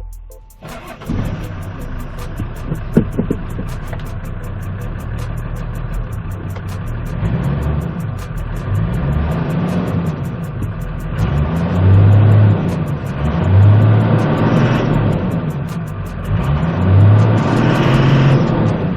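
Hyundai 5-ton truck's diesel engine running, revved up and back down several times in the second half.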